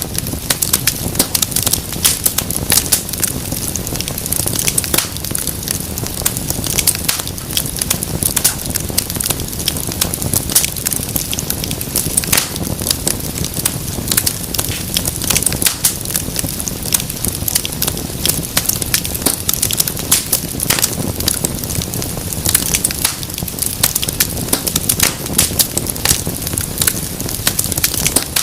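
Wood fire burning in a fireplace, with a dense, irregular stream of sharp crackles and pops over a low steady rumble of the flames.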